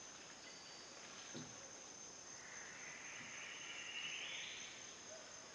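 Faint forest ambience: a steady high insect drone, with a soft hiss that rises in pitch in the middle and fades.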